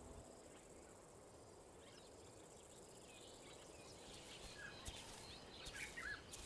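Near silence: faint outdoor bush ambience, with a few faint bird chirps in the second half.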